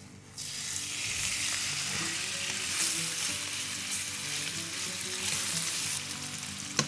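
Chicken sizzling as it goes into hot olive oil in a frying pan, the sizzle starting suddenly about half a second in and then frying steadily. A sharp click near the end.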